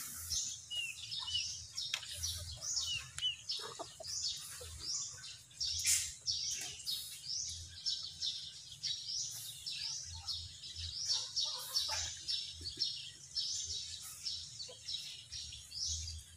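Birds chirping: short, high chirps repeating about two to three times a second, with a few lower calls in the first seconds.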